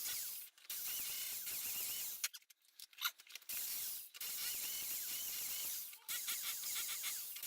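Impact drill hammering into brickwork in runs of one to two seconds, stopping and starting: brick being notched out to seat a supporting arch.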